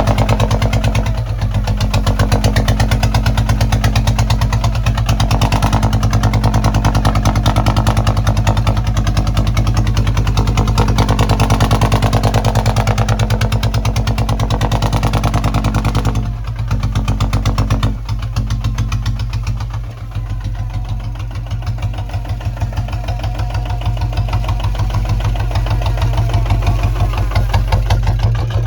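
Kubota ZT155 single-cylinder diesel engine running steadily with a fast, even thudding beat. It dips briefly about sixteen and eighteen seconds in, then runs a little quieter toward the end.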